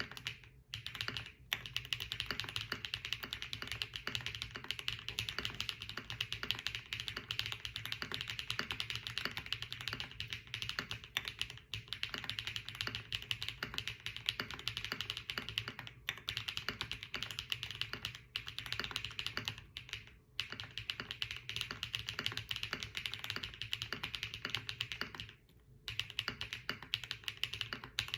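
Typing on a Qwertykeys QK80 mechanical keyboard with Hyacin V2u switches: a steady, fast run of keystrokes, with a few short pauses.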